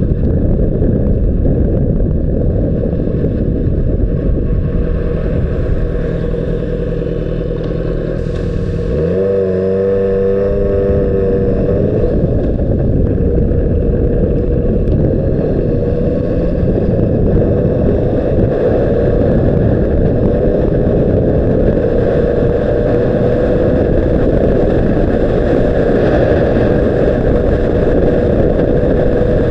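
Honda CBR600RR's inline-four engine running on the road, half buried in heavy wind rumble on an action camera's microphone. About nine seconds in the engine note jumps up and rises for a few seconds, and over the second half a single engine tone climbs slowly.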